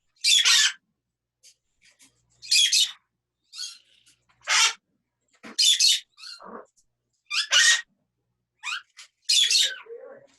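Pet parrots giving loud, harsh squawks, about seven short calls repeated every second or so.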